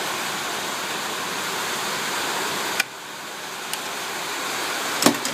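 Heavy rain making a loud, steady hiss. About three seconds in there is a click and the hiss suddenly drops quieter, then slowly rises again; a single sharp knock comes near the end.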